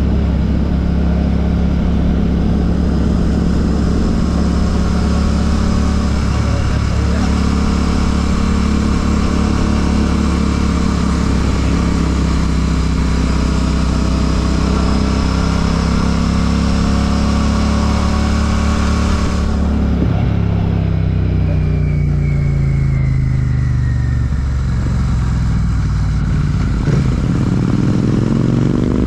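Royal Enfield Classic 650's parallel-twin engine running through an Ngage aftermarket exhaust, cruising at steady revs with wind rushing past. About two-thirds of the way through, the wind dies away and the engine note falls as the rider rolls off the throttle and slows. Near the end the revs climb again.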